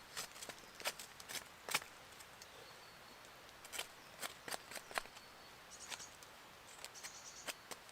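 Irregular crackles and snaps of someone moving over the woodland floor, twigs and leaf litter breaking underfoot, with faint birdsong now and then.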